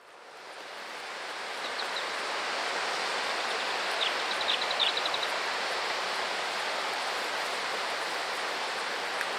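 Steady rush of a waterfall's falling water that fades in over the first two seconds. A few short high chirps come through around the middle.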